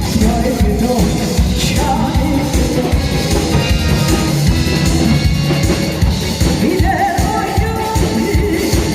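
Singing over amplified music with a steady drum beat.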